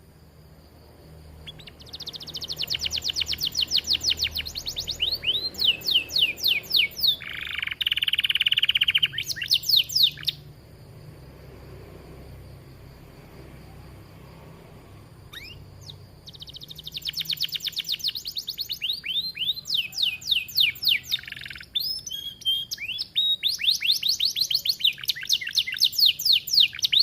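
Canary singing two long bouts of rapid trills, each a fast string of repeated high notes. A harsher buzzing roll comes partway through the first bout.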